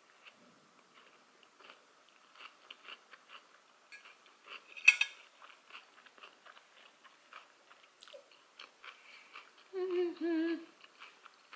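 A woman chewing a mouthful of sushi roll close to the microphone: soft wet clicks and smacks, with one sharper click about five seconds in. Near the end she hums a wavering closed-mouth 'mmm' for about a second.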